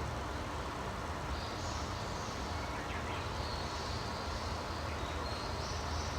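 Outdoor nature ambience: a steady low rumble under high, thin calls that come and go from about a second in.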